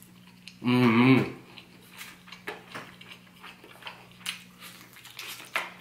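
Person eating pork neck bone with the fingers: a brief voiced sound of the mouth near the start, then irregular small clicks and smacks of chewing and biting meat off the bone, over a faint steady hum.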